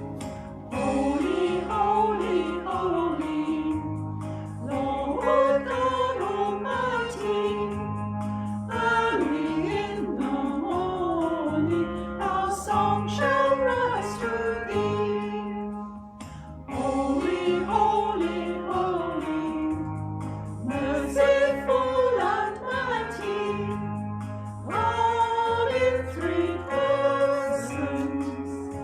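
Worship song sung by a group of voices over sustained low instrumental notes, with short pauses between phrases.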